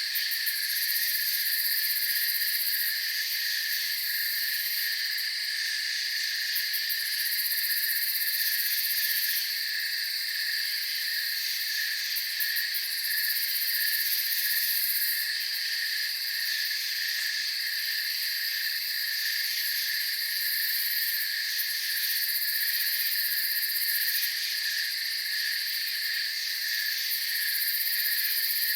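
Night chorus of crickets and other insects, continuous, with several pitched layers trilling at once. A very high-pitched layer swells and fades every few seconds.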